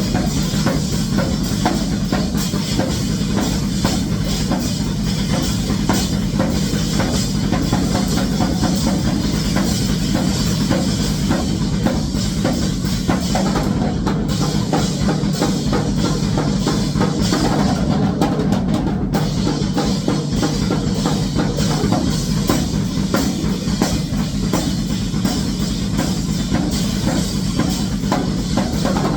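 Drum kit played in grindcore style: fast, dense drum and cymbal hits running without a break at an even, high loudness.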